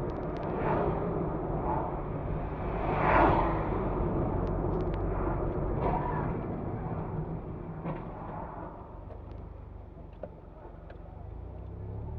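Car driving, recorded from inside: a steady low engine and road rumble with tyre hiss that swells about three seconds in and eases off toward the end.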